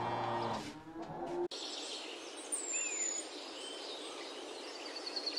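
The end of a cow's moo. After an abrupt cut comes a steady outdoor hiss with scattered short bird chirps and whistles, and a fast trill near the end.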